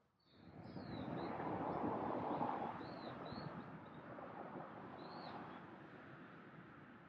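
Several short bird chirps repeating over a broad rushing noise, which swells in about half a second in, is loudest around two seconds and then slowly fades.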